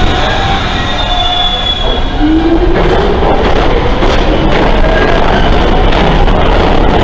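New York City subway R train pulling out of the station: wheel and rail rumble, with the traction motors' whine rising steadily in pitch from about two seconds in as the train accelerates.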